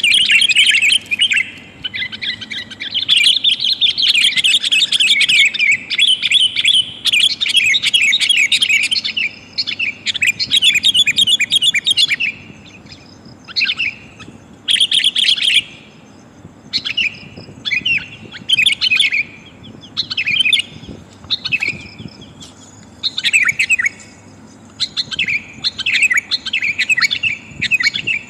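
Sooty-headed bulbul (kutilang) calls, a female's call used as a lure to bring males in. Busy, loud chattering for about the first twelve seconds, then shorter separate bursts of notes with brief gaps.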